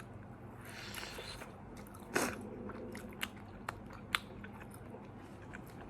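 A person chewing and biting a mouthful of McDonald's fast food close to the microphone, with a few sharp crunching clicks; the loudest comes about two seconds in.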